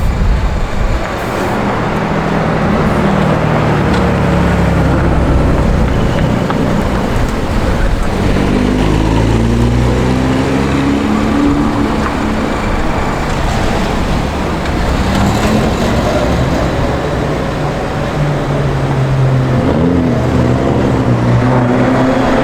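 Mazda RX8's twin-rotor Wankel engine pulling under load, its pitch climbing and dropping several times as it revs up through the gears and backs off, over steady road and wind noise.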